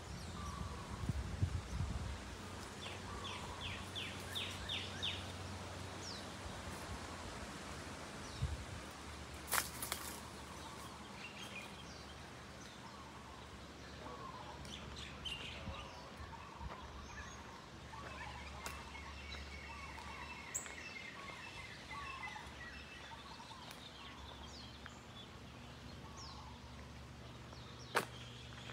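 Birds chirping and calling over steady outdoor background noise: a quick run of short falling notes early on, scattered chirps, and a rapid trill in the middle. A sharp click sounds about ten seconds in and again near the end.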